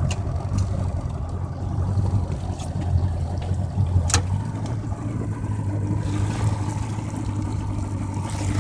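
Yamaha 115 hp two-stroke outboard running at slow speed, a steady low hum. A sharp click comes about four seconds in.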